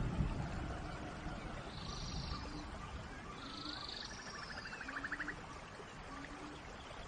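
Steady rain with animal calls over it: a few short pulsing trills, some higher and one lower, and a series of short low notes about once a second. There is a low rumble right at the start.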